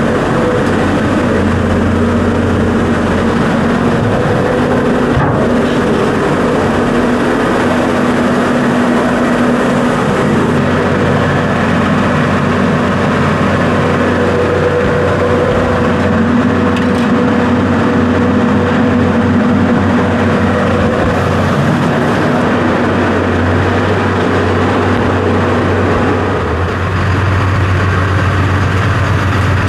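A vehicle engine running steadily and loudly, with a continuous hum that shifts slightly in pitch now and then.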